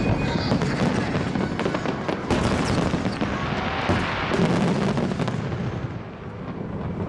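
Fireworks display bursting overhead: a rapid, dense run of bangs and crackle, which thins out about two-thirds of the way through.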